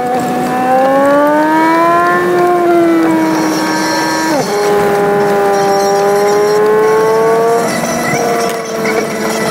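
A car engine running with its pitch gliding up and down, with a sudden drop in pitch about four and a half seconds in, like a gear change. It sounds high and quick because the drive's audio is played at six times speed.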